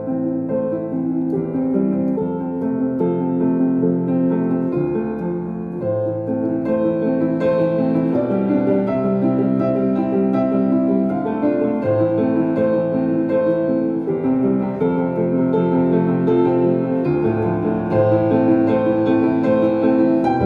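Slow, calm piano music with held chords that change every few seconds.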